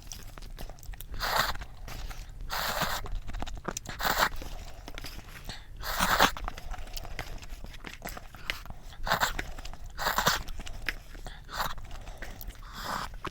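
Close-miked eating sounds: chewing and biting with crunchy, noisy bursts coming irregularly every second or two.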